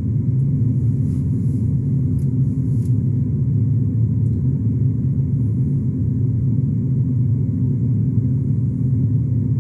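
Steady low rumble of a 2018 BMW X1 with its N20 2.0-litre turbocharged four-cylinder idling, heard from inside the cabin.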